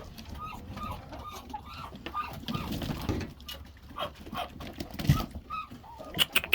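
Poultry giving short, soft calls over and over, with a few sharp knocks in between.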